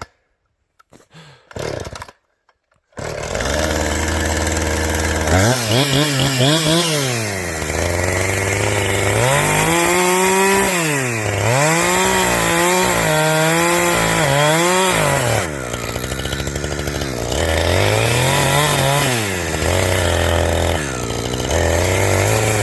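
Two-stroke chainsaw that comes in loud after about three seconds of near silence. It then revs up and down again and again, its pitch rising and falling every second or two, with short steady stretches in between.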